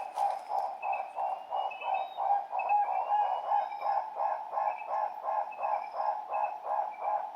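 Guinea turaco calling: a long, unbroken run of evenly spaced notes, about four a second, with faint higher bird chirps behind.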